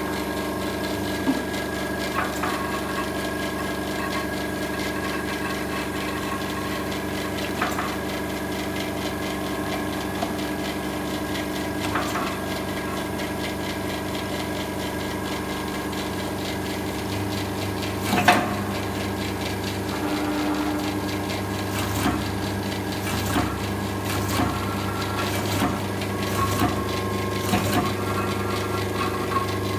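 Pearl-setting machine running with a steady hum, with a sharp clack every few seconds as it presses pearls onto fabric. The clacks come more often near the end.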